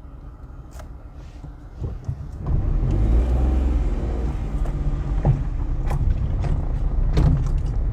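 A loud, steady low rumble sets in about two and a half seconds in and keeps going, with a few faint clicks.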